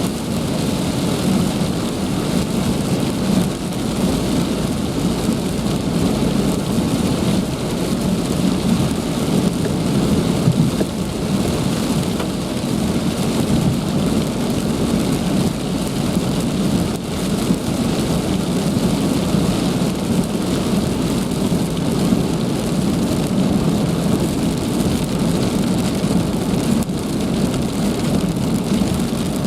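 Heavy rain falling steadily, a dense, unbroken rush.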